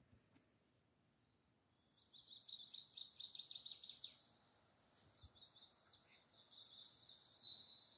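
A small songbird singing faintly: rapid runs of high chirps starting about two seconds in, a short pause, then more chirping with a brief held whistle near the end.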